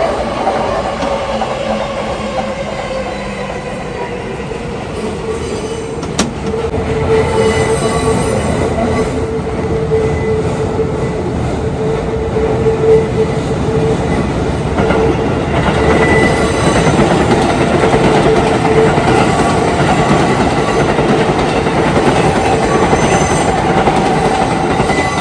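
Electric train running on the track, with a whine that falls in pitch over the first few seconds and then holds steady, over wheel noise and rail clatter.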